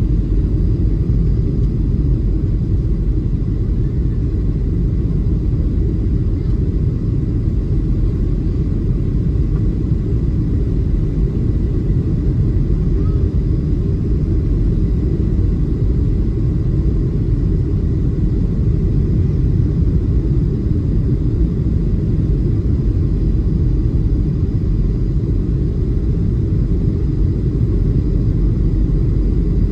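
Steady low rumble of a Boeing 737-700 heard from inside the passenger cabin, with a faint steady whine above it.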